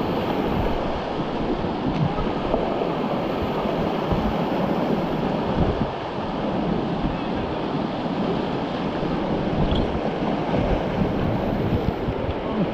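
River rapids rushing around the raft, a loud steady whitewater noise with scattered low knocks and thuds from the raft and paddles.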